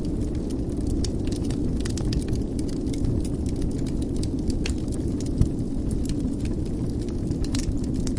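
Wood fire burning in a fireplace: a steady low rumble with frequent small crackles, and one louder pop a little past halfway.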